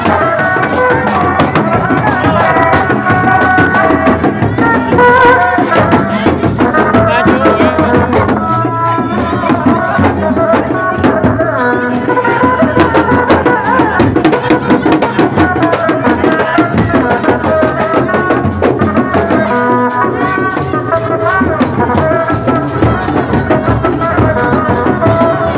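Live West Javanese folk ensemble music for a kuda lumping and sisingaan troupe: busy hand-drum patterns with a stepping, wavering melody line over them, continuous and loud.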